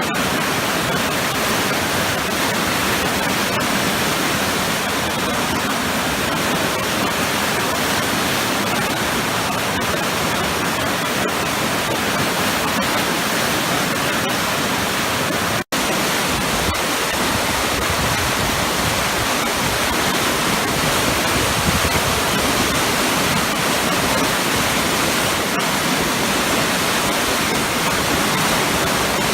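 A powerful waterfall with large churning eddies makes a steady, dense rush of falling water. The sound cuts out for an instant about halfway through.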